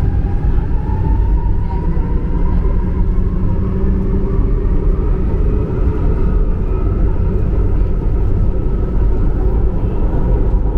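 MRT-3 light-rail train running, heard from aboard: a steady, loud low rumble of wheels on track, with a faint whine that rises in pitch over the first couple of seconds and then holds.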